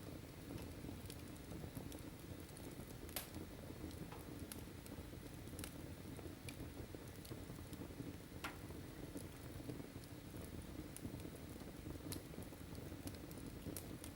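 Wood fire burning in a fireplace: scattered sharp crackles and pops over a low steady rumble of the flames, with louder pops about three seconds in and again a little past halfway.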